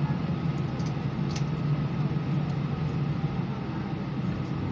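Steady cabin noise inside an Airbus A319 on the ground after landing: the engines idling and cabin air running, a low hum with a faint steady whine above it. A small tick about a second in.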